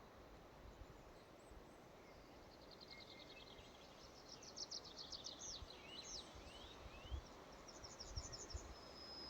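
Faint forest ambience with songbirds singing: a rapid high trill from about two and a half seconds in, followed by short sweeping notes, then another quick run of repeated notes near the end. A few soft low thuds are mixed in, one a little after seven seconds.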